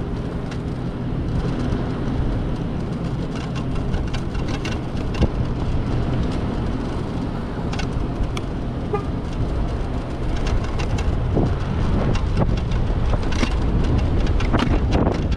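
Street traffic and road noise heard from a moving electric motorbike, with a low steady hum in the first half and a short toot near the middle. From about ten seconds in, sharp knocks and rattles come thick and fast as the bike jolts over potholed pavement.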